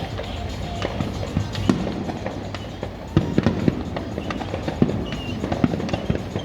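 Fireworks going off: a rapid, irregular run of pops and bangs, with a cluster of sharper bangs about three seconds in.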